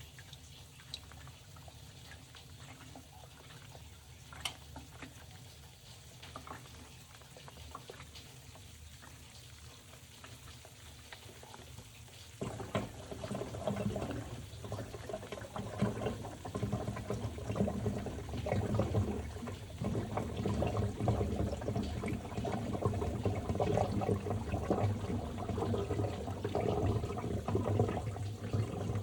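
Top-loading washing machine: quiet at first with faint clicks and water movement, then about halfway through water suddenly starts pouring into the tub and keeps running with a sloshing rush.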